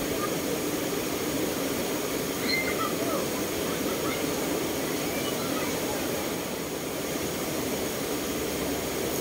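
Steady rush of river water flowing over rocks, an even noise throughout.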